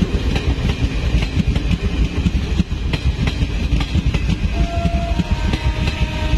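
Passenger train coaches rolling past at slow speed, with a steady heavy rumble of wheels on rail and repeated clicks as the wheels cross rail joints. A thin, faint squeal joins in over the last couple of seconds.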